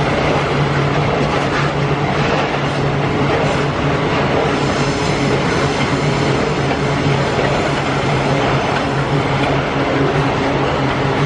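Loaded iron-ore freight train rolling past, a continuous steady rumble and rattle of the heavy wagons on the rails with a constant low hum. Faint high wheel squeal joins in after about four seconds.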